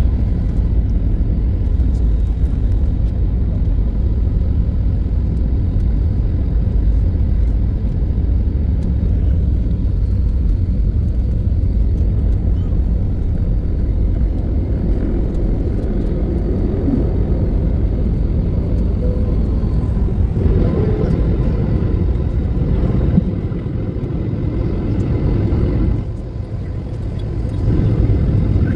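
Jet airliner taking off at full thrust: a steady, heavy low rumble with a thin, faint whine over it. The rumble eases briefly twice near the end, then returns.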